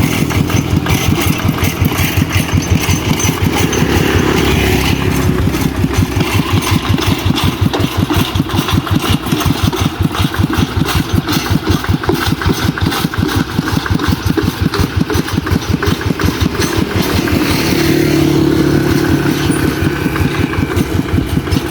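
Concrete mixer truck's diesel engine running with a fast, even chugging, speeding up briefly around four seconds in and again near the end.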